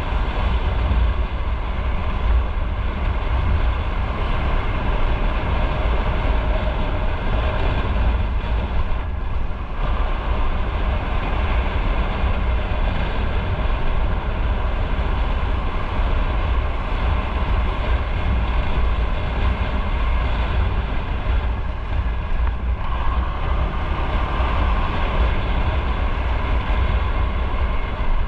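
Motorcycle riding at speed: steady engine and road noise with a deep wind rumble on the onboard microphone.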